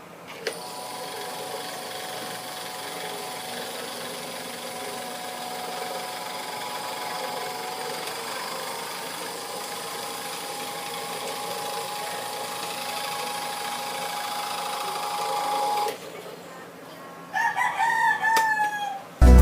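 Camel PSIF-16 electric fan motor running with a steady, multi-tone whine for about fifteen seconds, then switching off. This is the noise when spinning that the uploader puts down to a worn shaft and bushing. Near the end a rooster crows.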